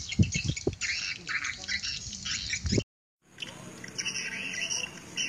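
A dense flock of swiftlets chirping and twittering, with low knocks underneath. It cuts out suddenly just before three seconds in, then fainter chirping resumes over a steady hum.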